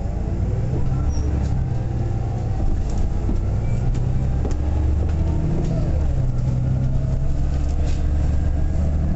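A road vehicle's engine running with a steady low rumble, its pitch stepping up and down a few times.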